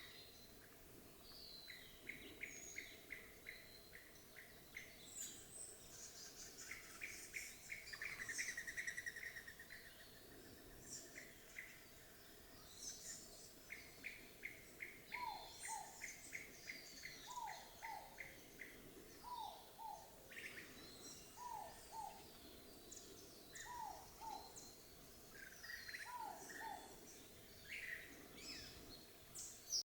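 Inca dove repeating its two-note "no hope" coo about every two seconds from about halfway in. Other small birds chirp and give rapid trills throughout.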